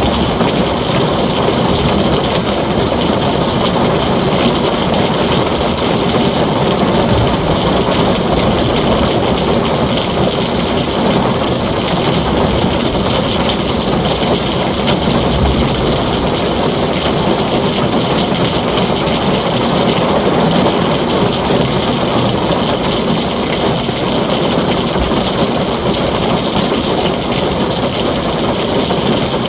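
Heavy rain falling steadily on a tin roof, a dense continuous patter with no distinct thunderclap.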